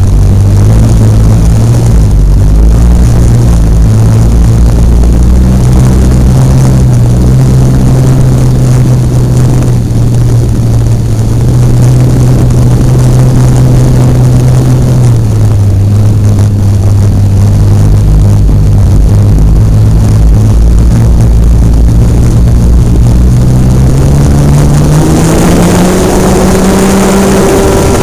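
Hobbistar 60 RC airplane's engine and propeller heard up close, running at a low, steady speed with a slight dip in pitch about halfway. Over the last few seconds the pitch climbs quickly as the throttle is opened.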